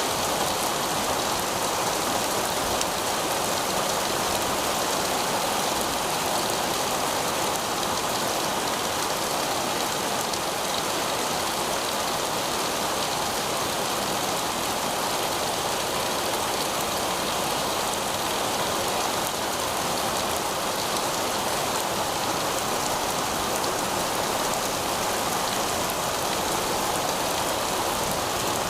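Heavy rain falling steadily on pavement, a dense, even hiss of countless drops splashing on the hard surface.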